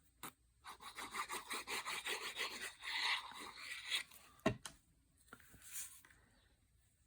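Paper being trimmed: a fast, rasping scrape lasting about three and a half seconds, followed by a single knock.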